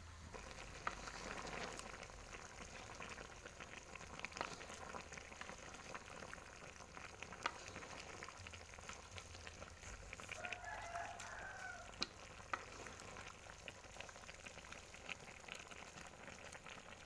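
Chicken feet, intestines and gizzard-liver sizzling as they stir-fry in a pan, a steady hiss with small crackles, and a few sharp taps of the spatula against the pan. This is the sauté stage, before the coconut milk goes in.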